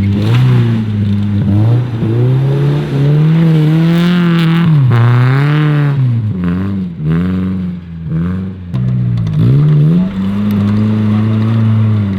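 A 4x4 off-road vehicle's engine revving hard, its pitch rising and falling again and again as the throttle is worked, with several quick drops and recoveries in the second half.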